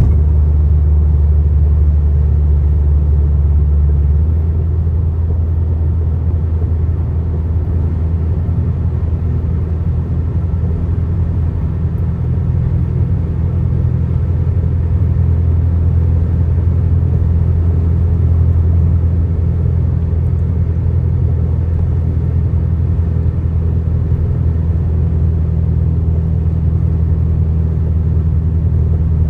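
Steady low rumble of a car driving at highway speed, engine and road noise blended, with no breaks.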